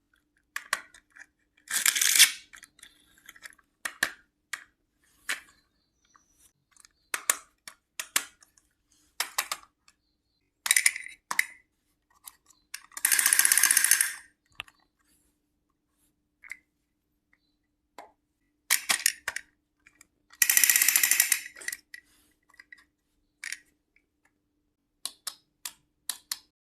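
Small plastic and metal pieces of a miniature toy kitchen set being handled: scattered sharp clicks and taps, with three longer noisy stretches of about a second and a half each, near the start, the middle and about two-thirds through.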